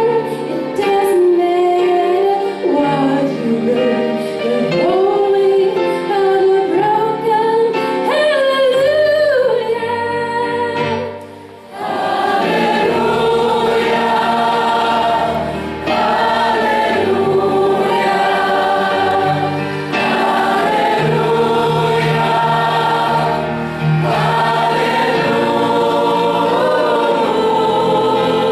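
A choir singing with accompaniment, the sung lines shifting in pitch. There is a brief drop in level about eleven seconds in, after which the choir comes back fuller.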